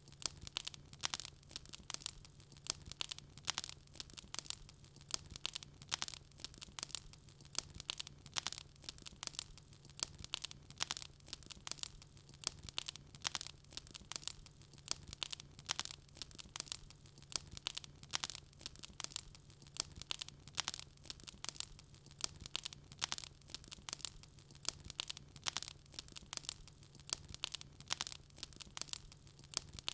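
Wood fire crackling in a fireplace: many sharp irregular pops and snaps, several a second, over a faint low hum.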